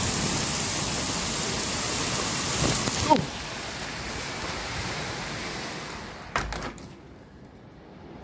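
Torrential thunderstorm rain pouring as a dense, steady hiss. About three seconds in it suddenly turns muffled and quieter, with a short falling squeak, and a couple of knocks follow a few seconds later.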